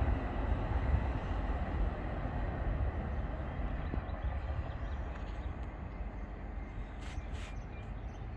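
A freight train of empty intermodal well cars rolling away, its wheels on the rails making a low rumble that slowly fades.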